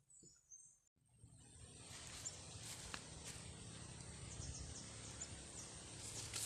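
Outdoor ambience cutting in about a second in: a steady rushing background with short, high chirps and ticks scattered through it.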